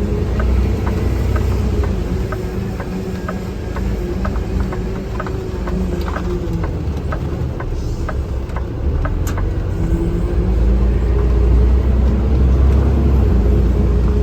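Vehicle cabin while driving: engine and road noise as a steady low rumble, with a faint regular ticking about twice a second.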